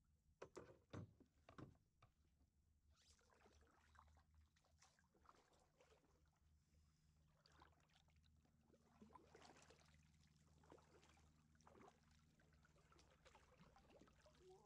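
Kayak paddling, quiet: soft paddle splashes and water dripping off the blades. A few knocks come about a second in.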